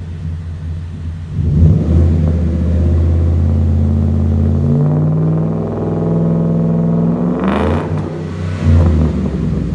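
The 5.0 V8 of a 2014 Ford F-150, breathing through a Roush cat-back exhaust, is idling and then revved. Engine speed jumps about a second in and is held up, dips, climbs again, then falls back with one more short blip near the end.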